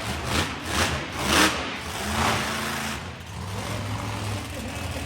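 Monster truck engine revved in several short, sharp blips, then settling to a steadier, lower run.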